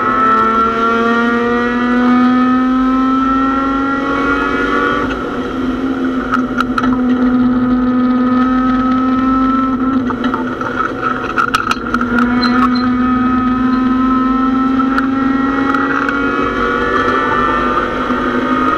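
Mazda MX-6 race car's engine heard from inside the stripped cockpit, pulling hard with its pitch climbing slowly and falling back twice, around five and eleven seconds in. A few sharp clicks sound around six and eleven seconds in.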